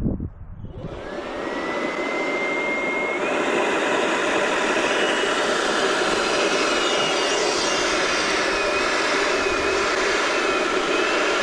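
Electric balloon inflator switching on and running steadily, a loud rush of air with a thin motor whine that rises in pitch over the first few seconds and then holds, wavering slightly.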